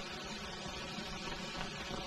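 Steady background hiss and noise of an early 1930 sound film's soundtrack, with no dialogue.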